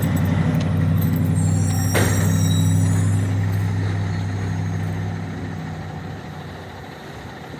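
Garbage truck's diesel engine running steadily, then fading away over the last few seconds as the truck moves off. There is a sharp click with a short hiss about two seconds in.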